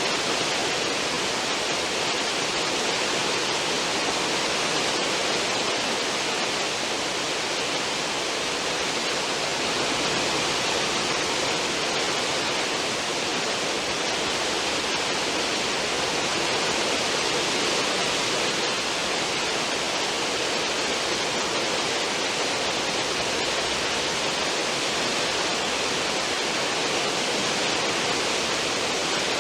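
Cruise ship's stern wake: a steady, unbroken rush of churning, foaming water.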